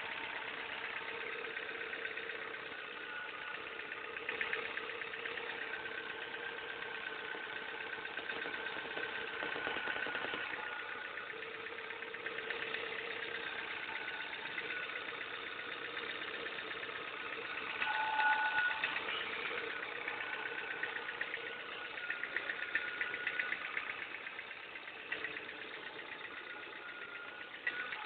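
Ford car engine idling with a fast, even ticking knock running through it, the strange engine noise being diagnosed. The engine rises briefly in level about 18 seconds in.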